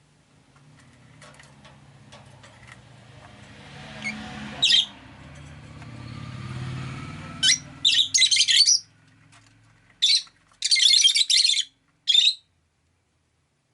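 Rosy-faced lovebirds giving loud, shrill chirping calls in short bursts: one brief call about halfway through, then a run of calls in the second half. Before them, the low rumble of a passing vehicle swells and fades.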